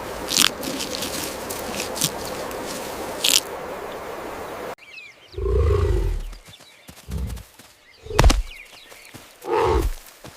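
A large animal growling and roaring in four deep, short bursts, the first and longest lasting about a second. They begin after an abrupt cut, about halfway through, from steady outdoor noise with a few sharp clicks.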